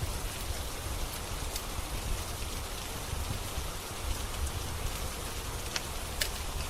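Steady rain hissing, with a low rumble, and the occasional sharp pop of a crackling wood fire, two pops near the end.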